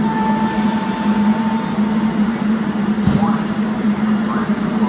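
SEPTA Regional Rail train cars rolling past at close range: a steady hum under the rumble of the wheels on the rails. A thin high squeal runs for about the first two seconds, and there is a low thump about three seconds in.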